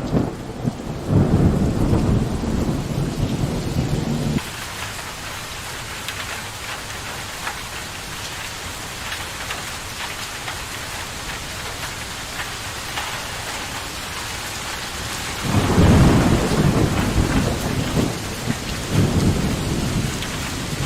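Steady heavy rain with thunder rumbling. The rumble cuts off abruptly about four seconds in, leaving only the rain. Thunder rolls in again about three-quarters of the way through, in two swells.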